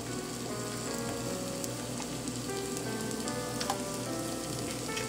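Slices of boiled potato sizzling steadily in hot olive oil in a frying pan, with a few small crackles.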